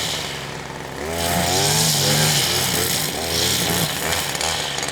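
Wind blowing hard across the microphone, a steady rushing noise with low rumble, and some pitched voice-like sound rising and falling through it from about a second in.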